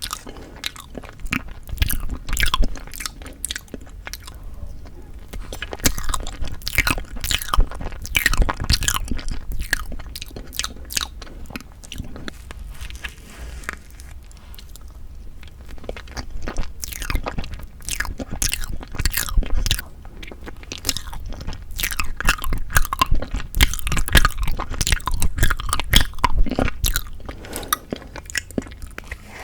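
Close-miked chewing and biting of tofu tiramisu cake: a dense run of small, irregular mouth clicks and smacks, thinning out for a few seconds around the middle before picking up again.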